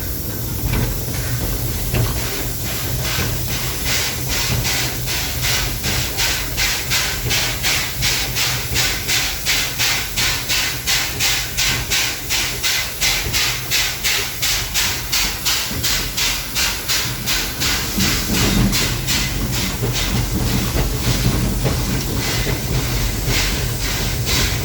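GR-280 narrow-gauge steam locomotive working, heard from its cab: a steady hiss of steam over a low rumble, with a quick, regular exhaust chuff of about three beats a second. The chuff sets in a few seconds in and grows less distinct near the end.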